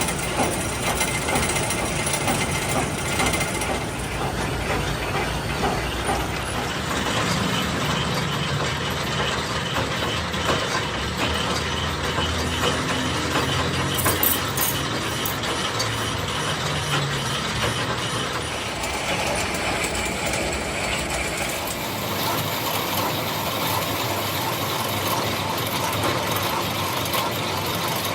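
Workshop machine tool running continuously, a steady mechanical clatter of gears and moving parts that changes character about four seconds in and again near the end.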